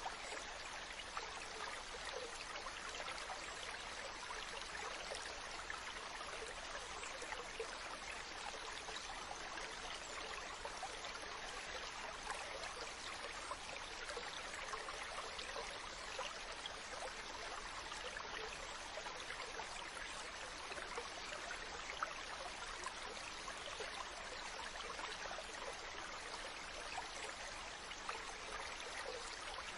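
Mountain stream running steadily, water splashing and babbling over rocks.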